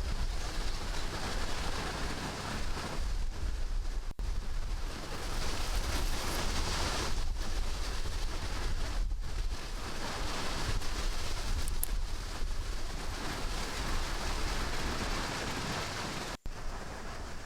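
Steady rushing wind noise with a heavy low rumble of wind buffeting the microphone, broken by brief dropouts about four seconds in and near the end.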